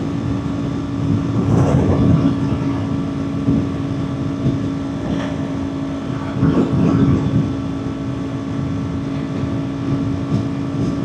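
Kawasaki Ninja 400's parallel-twin engine holding a steady highway cruise, a constant engine tone under gusty wind rush that swells about two seconds in and again around six to seven seconds.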